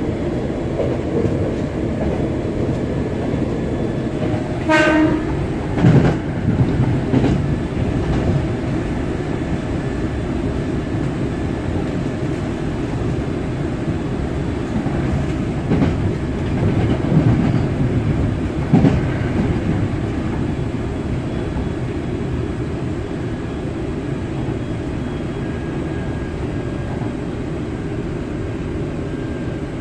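Running sound of a Hankyu 7000-series electric train heard from inside the passenger car: a steady rumble of wheels on rail, with a few knocks over rail joints around 6, 16 and 19 seconds in. A short horn blast sounds about five seconds in.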